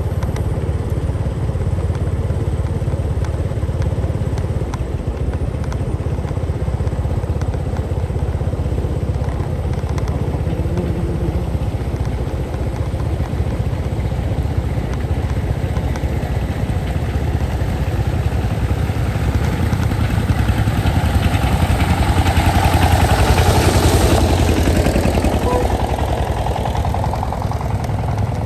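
Motorcycle engine running steadily while riding, with a louder swell of engine and road noise about three-quarters of the way through.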